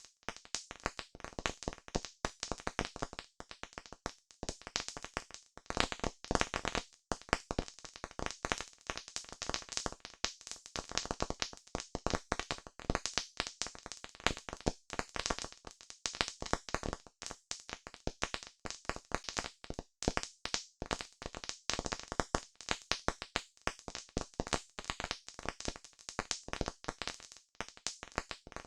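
Campfire crackling: a dense, irregular run of sharp pops and snaps from burning wood over a soft hiss.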